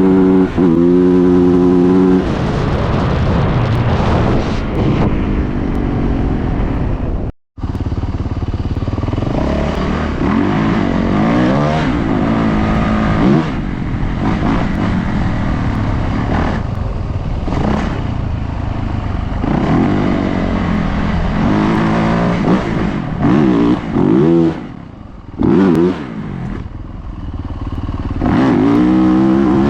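Dirt bike engine running hard, revving up and dropping back over and over as the rider works the throttle and gears, with rattles and clatter from the bike over rough ground. The sound cuts out briefly about seven seconds in.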